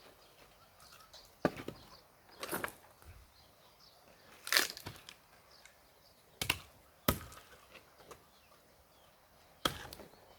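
Axe blows splitting firewood: about six sharp chopping strikes a second or two apart, some followed by a short cracking, splintering sound as the wood splits.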